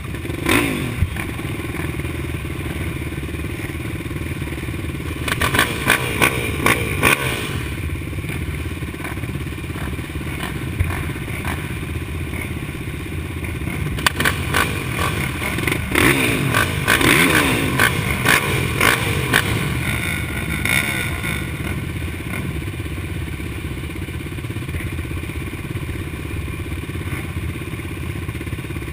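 Motocross dirt bike engines running, with the throttle blipped in quick bursts that rise in pitch, about five seconds in and again from about sixteen to twenty seconds in.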